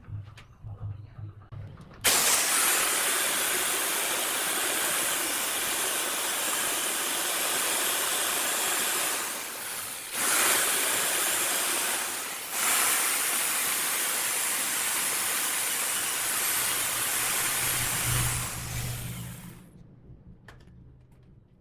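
A loud, steady hiss that starts abruptly about two seconds in, cuts out briefly twice, and stops near the end.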